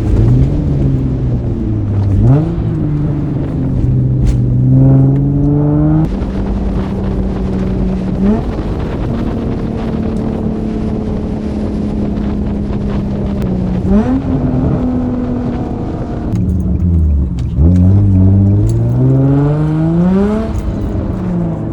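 Infiniti G35's VQ-series V6 pulling through the gears of a manual gearbox: its pitch climbs and drops back at each upshift, holds steady for a few seconds of cruising, falls off, then climbs again in a hard pull near the end.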